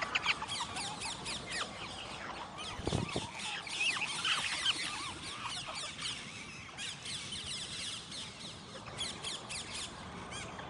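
A flock of parrots chattering, with many quick, overlapping high squeaks and chirps. A brief low thud comes about three seconds in.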